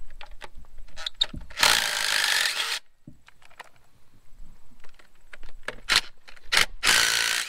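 A power tool driving a socket runs in two bursts of about a second each, backing out rusted cover bolts on a Farmall H engine, with sharp metal clicks and taps between the bursts. One of the bolts, rusted through, twists off.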